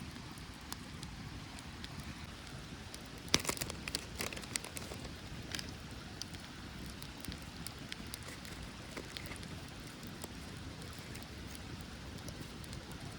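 Wood campfire crackling, with a quick run of sharp snaps and pops about three seconds in and scattered ticks after, over a steady low rushing background.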